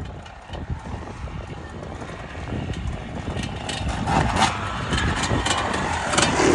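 Enduro motorcycle engine running off-road, with irregular knocks and rattles from rough ground; it gets louder from about four seconds in.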